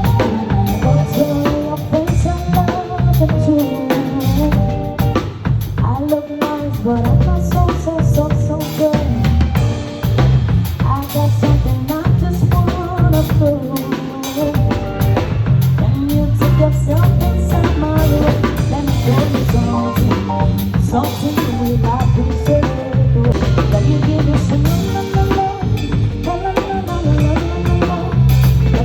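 Live band playing, with a full drum kit (kick drum, snare and rimshots) over a bass line and a melody that bends in pitch.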